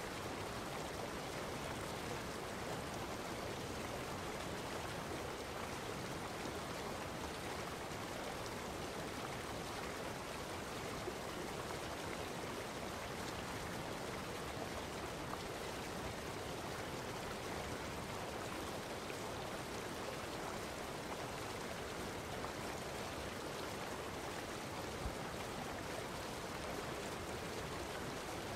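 Steady rushing of running water, even and unbroken, with no distinct events.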